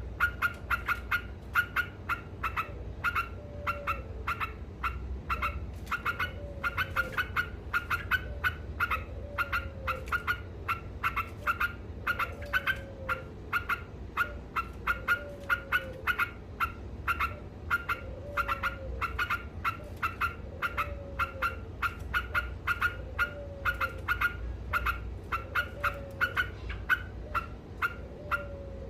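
Yellow-vented bulbul (trucukan) chattering non-stop, a rapid run of short, sharp repeated notes several times a second. A lower note that falls in pitch comes back about every two and a half seconds.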